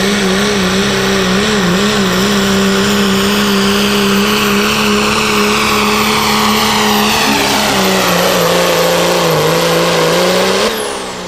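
A pro street diesel pickup truck pulling the sled at full throttle: a loud, steady engine note with a high whine over it, its pitch sagging and wavering under load late in the run. Near the end the throttle is cut and the sound drops away sharply, the whine falling.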